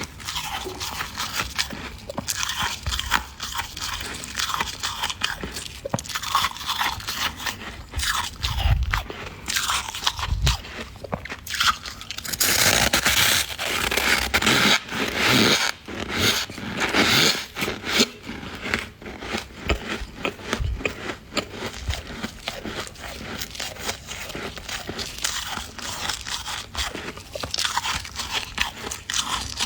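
Freezer frost being scraped and crunched: a dense run of crisp, irregular crackling crunches. They grow thicker and louder for several seconds around the middle.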